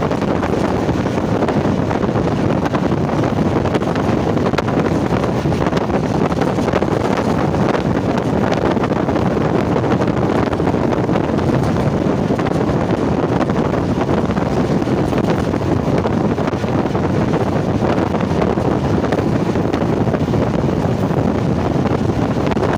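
Steady rushing noise of a passenger train running at speed, with wind buffeting the microphone.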